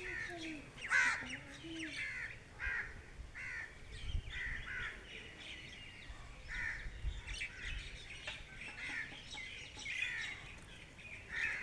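Wild birds calling: many short, repeated calls overlapping one another, some harsh and caw-like, with chirps among them.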